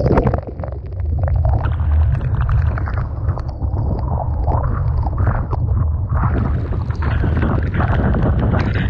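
Typhoon wind buffeting the microphone as a deep steady rumble, with storm waves and spray crashing and splashing close by. A loud splash right at the start falls away about half a second in, and a wet gurgling stretch comes in the middle.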